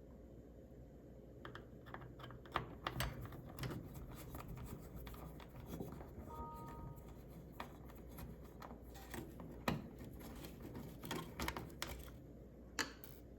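Faint, irregular small clicks and taps of a short Phillips screwdriver backing the screws out of a microwave's control board.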